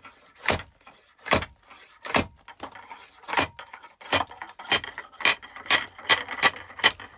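Splitting axe striking oak firewood again and again, about a dozen sharp blows with a short ring, coming faster in the second half.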